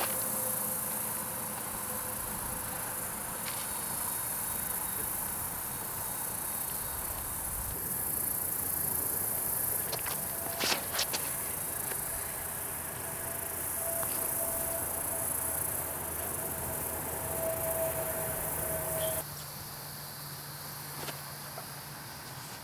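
Insects, such as crickets, buzzing steadily and high-pitched, with a few sharp clicks about eleven seconds in; the sound drops abruptly about nineteen seconds in.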